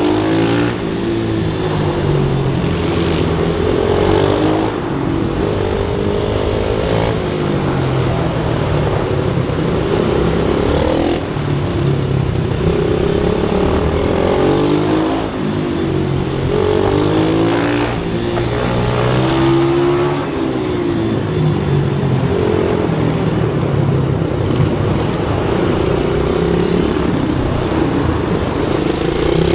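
Pit bike engines revving on a track, their pitch rising and falling over and over as they accelerate and shift.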